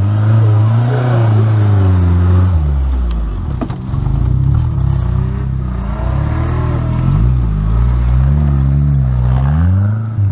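Off-road 4x4's engine revving, its pitch rising and falling repeatedly as the throttle is worked, with the revs dropping about three seconds in. A single sharp knock comes shortly after the drop.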